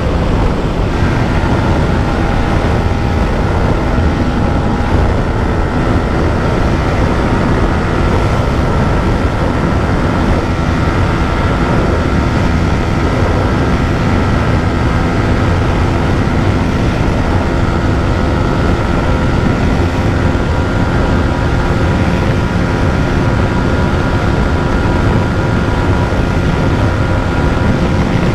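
Yamaha MT-15's 155 cc single-cylinder engine held flat out in sixth gear near its top speed of about 138 km/h, a steady high-revving drone with heavy wind rush over the microphone.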